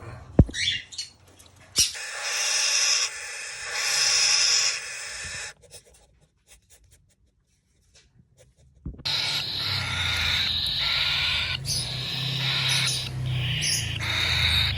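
Parrot chicks in a nest box giving raspy, hissing calls: two short bursts, then after a few seconds of silence a longer continuous stretch. A few clicks at the start, from the box being handled.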